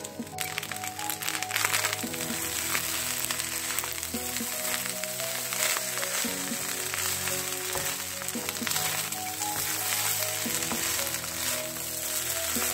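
Fried rice sizzling in a hot wok as a spatula stirs and tosses it, with fine crackles and clicks throughout, under background music.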